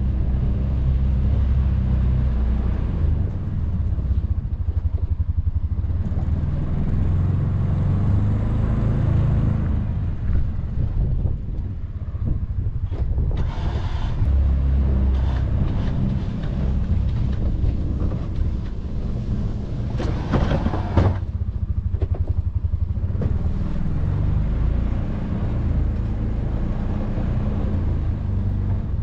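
Can-Am Defender side-by-side's engine running steadily while plowing snow, with two short noisy bursts, one about halfway through and a stronger one about two-thirds in.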